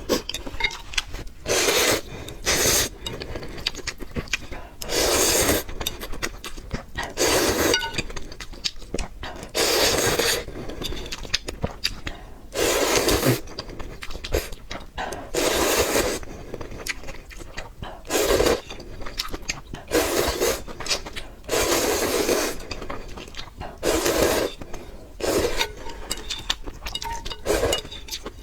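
Close-miked eating of noodle soup: about a dozen loud, noisy slurps every two to three seconds, with wet chewing between them.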